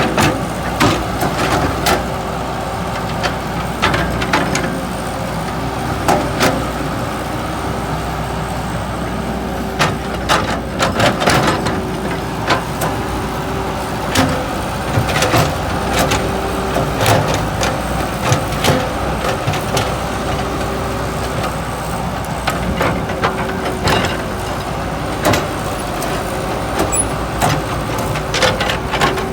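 Heavy vehicle engine running steadily under a constant drone, with frequent sharp metal knocks and clanks throughout.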